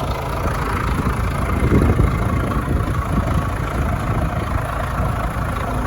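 Diesel truck engine idling: a steady low rumble.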